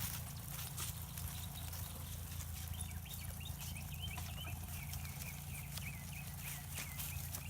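A bird chirping in short, rising notes, a few a second, starting about three seconds in. Beneath it runs a steady low rumble with scattered clicks.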